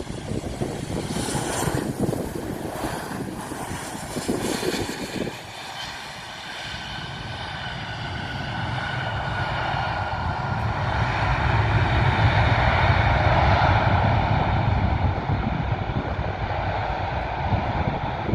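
An airplane's engines growing louder as it passes, loudest about two-thirds of the way through and then easing off. In the first few seconds wind gusts buffet the microphone.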